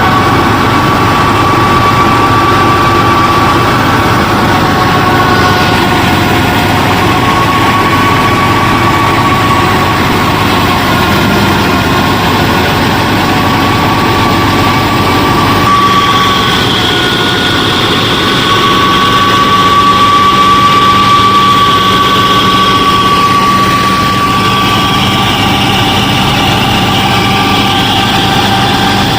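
Small motors of a DIY miniature combine harvester running steadily with a high whine that wavers a little in pitch. A second, higher whine joins about halfway through.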